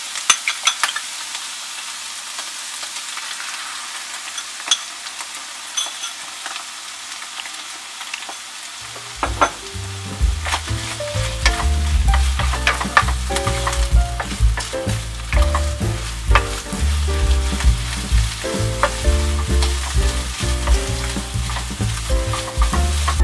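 Beaten egg sizzling in a hot frying pan of carrot and green bell pepper strips, with clicks and scrapes of a wooden spatula stirring it. About nine seconds in, background music with a bass line comes in under the frying.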